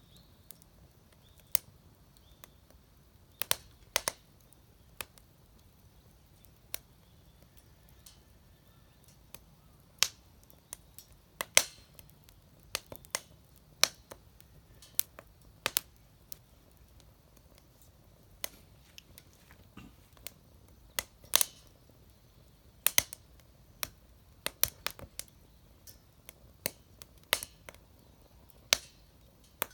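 Wood fire crackling in a homemade fire pit, with sharp pops at irregular intervals, roughly one or two a second.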